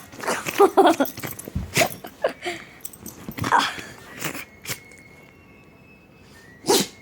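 A dog sneezing again and again, short sharp snorts a second or two apart, the strongest near the end, with a few short whiny sounds in the first second.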